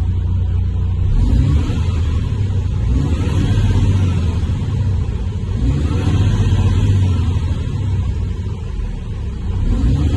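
Diesel engine of a MAN TGS 33.440 6x6 truck running, revved up and let back down about four times.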